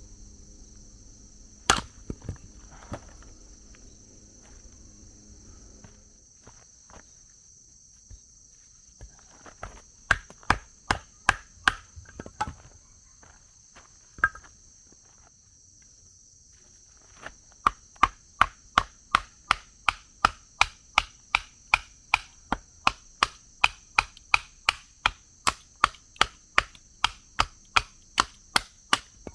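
Firewood being chopped: sharp strikes of a blade into wood, a few at first, a short run of about six strikes about ten seconds in, then a long even run of about two strikes a second through the last twelve seconds. Crickets or other insects chirr steadily behind.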